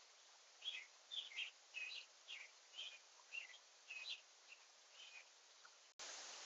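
A small songbird chirping: a run of about ten short chirps, roughly two a second, over a faint hiss. Near the end the background changes abruptly to a louder, steady hiss.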